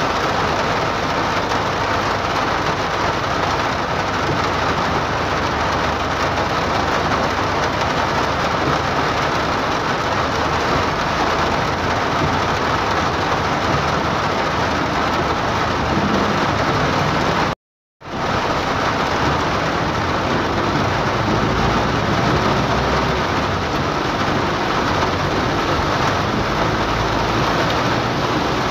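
Heavy rain falling on a car's roof and windscreen, heard from inside the cabin as a steady, loud hiss. The sound cuts out completely for about half a second roughly two-thirds of the way through.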